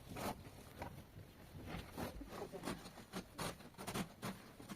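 Irregular short scraping and rustling noises, several a second, like material being handled and rubbed.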